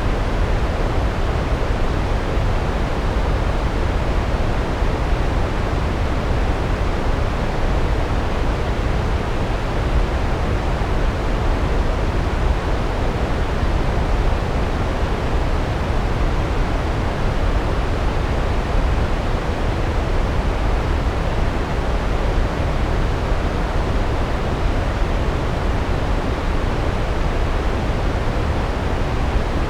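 Large waterfall: a steady, unbroken rush of falling water, deepest and strongest in the low rumble, with no changes.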